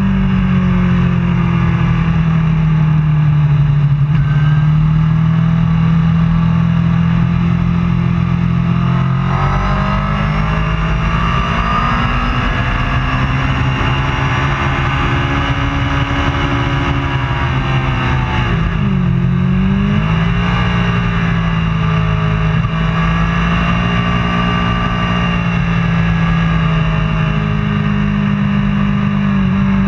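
Racing superbike engine running continuously, its pitch swinging up and down with the throttle, dropping sharply and climbing back about two-thirds of the way through.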